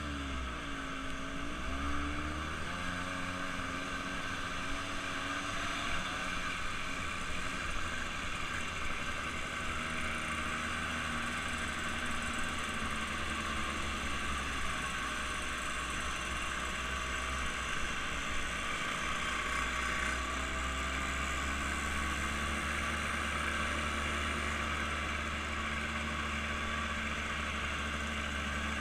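An engine running steadily under way, its pitch drifting slightly up and down, with a constant rushing noise over it.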